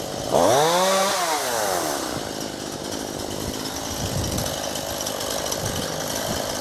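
Chainsaw revving sharply about a third of a second in, its pitch rising and then falling back over the next two seconds, then running on more quietly.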